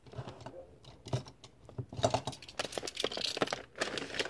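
Plastic courier mailer bag being torn open by hand: the plastic crinkles and rustles in a run of short, irregular clicks and tears that get busier about halfway through.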